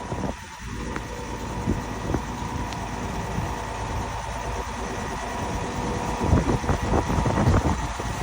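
Diesel engine of a 32 m Putzmeister truck-mounted concrete boom pump running steadily, with a few scattered knocks.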